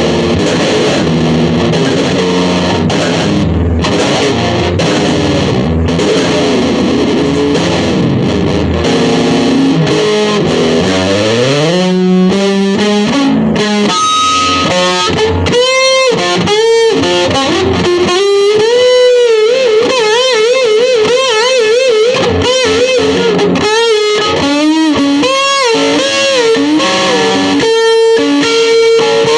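Electric guitar played through effects with some distortion: thick sustained chords, then a slide rising in pitch about ten seconds in, followed by a lead line with wide vibrato and bent notes.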